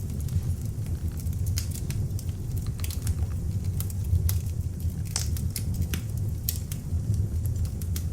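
Beech-wood log fire burning in an open fireplace: a steady low rush of flames with frequent sharp crackles and pops scattered irregularly throughout.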